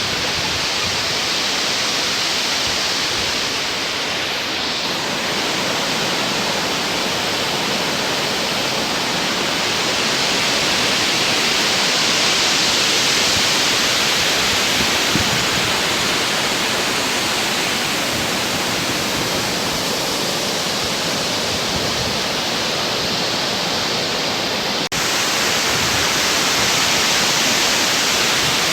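Waterfall: a loud, steady rush of falling water, close to the falls, with one brief dip near the end.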